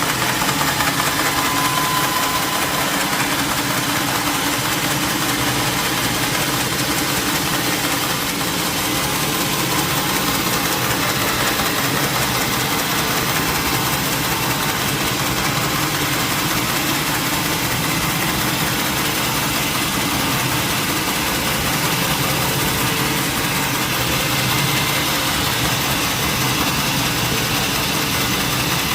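Sawmill machinery running steadily: a continuous, unbroken engine-like drone with a dense even noise.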